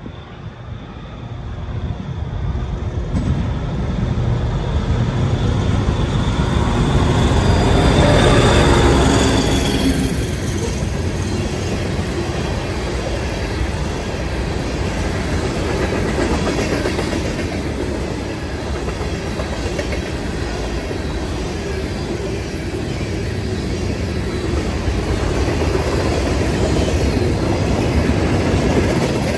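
CSX freight train led by a diesel locomotive, approaching and passing close by. It is loudest as the locomotive goes by about 8 seconds in, then the freight cars roll past in a steady rumble.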